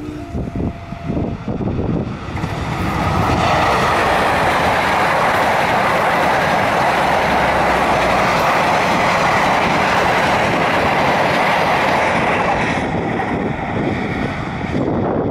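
Singasari passenger train rushing past at speed, with steady wheel-on-rail noise and a clatter of the cars over the track, building up over the first few seconds and easing after about 13 seconds.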